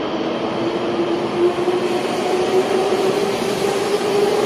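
Taiwan High Speed Rail 700T train moving past the platform close up: a steady rush of train noise with a whine that rises slowly in pitch.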